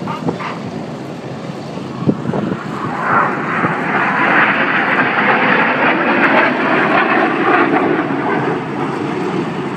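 Jet noise from Red Arrows BAE Systems Hawk T1 jets flying past. It swells about three seconds in, stays loud through the middle and eases near the end. A brief knock comes about two seconds in.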